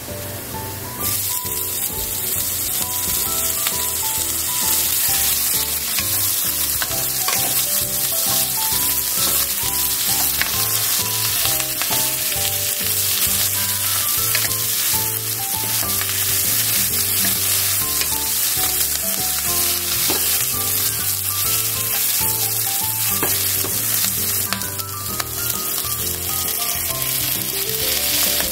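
Potato wedges and sliced wiener sausages frying in oil in a pan: a steady sizzle that grows louder about a second in as the sausages go in. Now and then there are small clicks and scrapes as the food is stirred.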